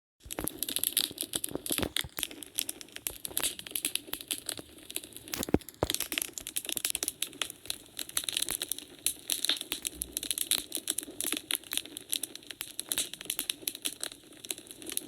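Wood fire crackling in a fireplace: a dense, irregular run of small snaps and pops, with one louder pop about five and a half seconds in.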